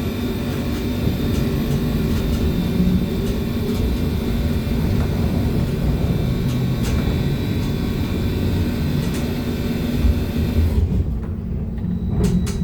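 BKM-321 trolleybus in motion, heard from inside the cabin: a steady low running rumble with faint steady whine tones and occasional rattles. About eleven seconds in the high hiss falls away and a few knocks follow, then a low whine starts to rise near the end.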